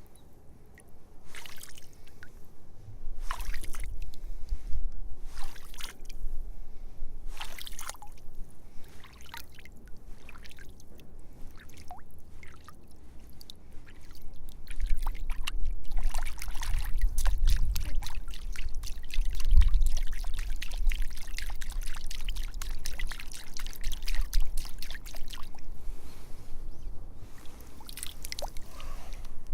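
Water trickling and pouring, with a low rumble and many small splashes that thicken and grow louder in the second half.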